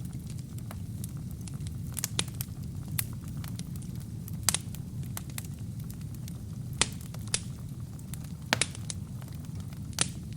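Wood fire burning in a fireplace: a steady low rumble of flames with irregular sharp crackles and pops from the burning logs, a few of them louder.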